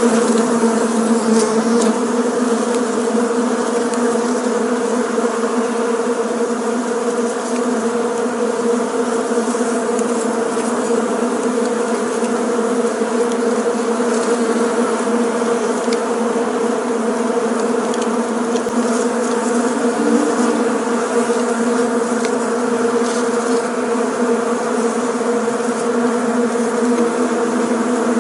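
Many bees buzzing together in a steady, unbroken hum.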